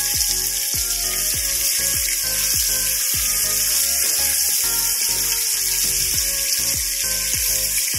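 Potato chunks sizzling steadily as they fry in hot mustard oil, under background music with a steady beat.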